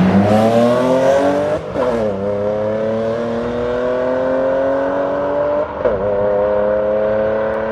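A car accelerating hard in a street race, its engine pitch climbing through the gears with upshifts about two seconds in and again near six seconds.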